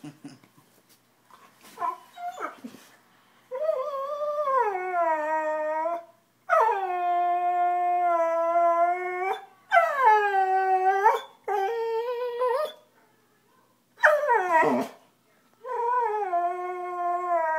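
Golden retriever howling and whining: a few short yips, then a string of long, drawn-out cries with brief pauses between. Each cry slides down in pitch at its start. It is a distressed cry, given because the dog thinks it is being scolded.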